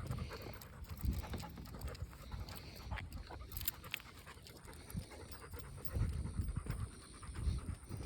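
Dog panting hard while walking, warm and tired, with footsteps along the road.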